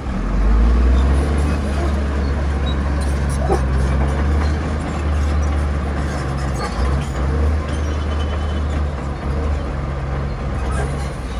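Bulldozer's diesel engine running under load with a steady deep rumble, its pitch wavering slightly, and scattered light clicks over it.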